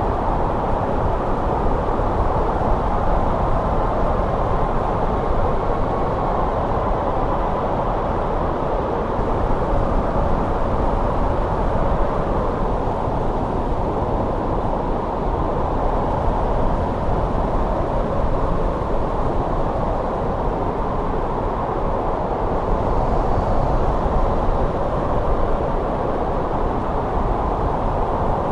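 Winter wind blowing steadily, a low, even rush of noise with a faint whistle in it.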